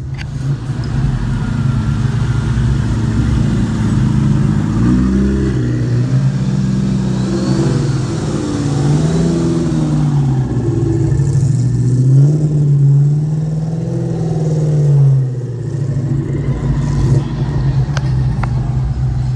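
Car engine, a Hemi V8 by the talk, running steadily and then revved up and down several times before settling back to idle.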